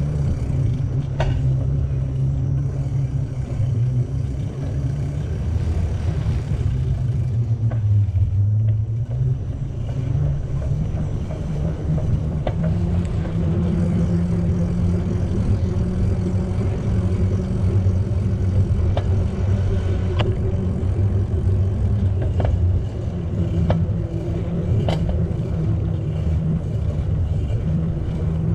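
Steady low rumble of riding a bicycle: wind on the microphone and tyres rolling over pavement, with a few light clicks scattered through it.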